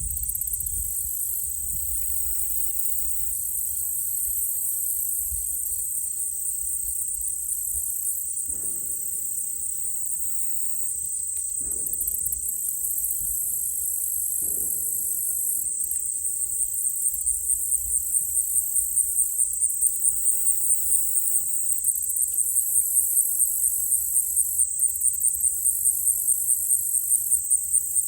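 Insect chorus: a steady high-pitched trill that turns into a fast, even pulsing through the second half. Three distant gunshots from a shooting range, about three seconds apart, each trailing off in an echo.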